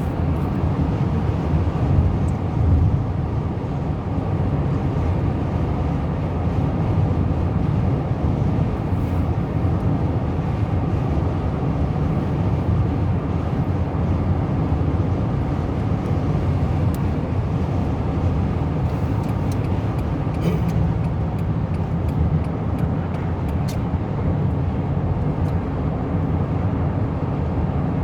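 Steady road and engine noise of a car driving at highway speed, heard from inside the cabin: an even, unbroken low rumble.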